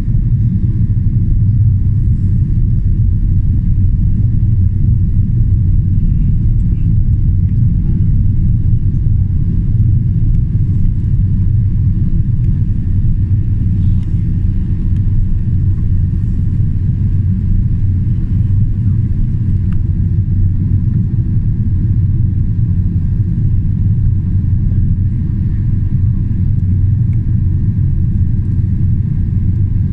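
Steady low rumble inside the cabin of a Boeing 777-300ER in flight: the drone of its General Electric GE90 engines and the airflow, with faint steady tones above it.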